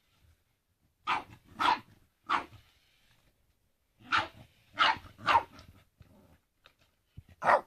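A Boston terrier barking in short, sharp barks: three in quick succession a little after a second in, three more around the middle, and one more near the end. It is excited play barking at a radio-controlled toy truck.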